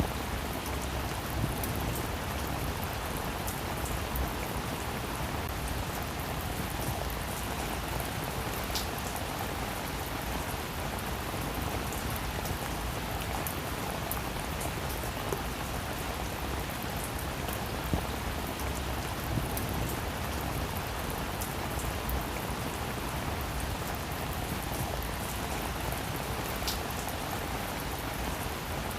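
Steady rain falling on a roof, a constant hiss with many small scattered drop ticks.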